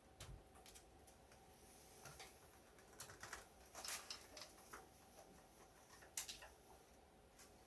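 Faint, irregular clicks and light rattles from an opened HP 3458A multimeter being turned over and tipped to shake out something loose inside; the sharpest click comes a little after six seconds.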